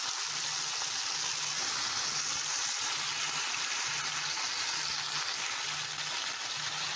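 Spicy sauce with onion and peppers frying in a hot pan, sizzling steadily.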